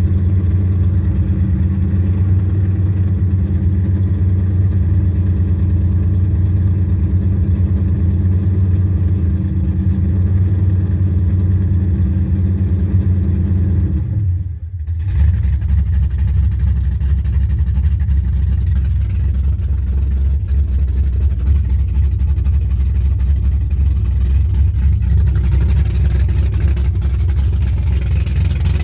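Freshly built 6.2-litre LS3 V8 running at a steady idle on its first start-up. It has 12:1 compression, PRC 260 heads and a custom 243/255-duration cam. About halfway through, the sound drops out for a moment, then picks back up and keeps running.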